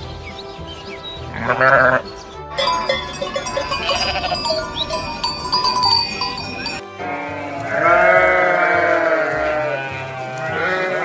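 Animal bleating: a short wavering call about one and a half seconds in, then a long drawn-out bleat from about seven and a half to ten seconds and a shorter one near the end, over background music.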